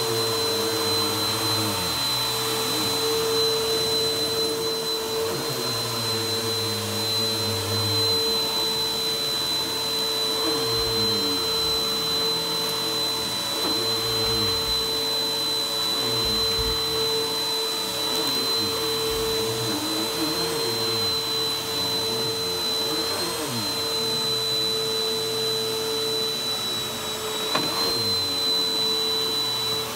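Vacuum cleaner running steadily on a rug, with a constant high whine and a steady mid-pitched hum over its airflow noise. Lower tones slide up and down every second or two.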